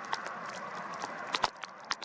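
Outdoor ambience of gusty wind on the microphone, with scattered sharp clicks and taps.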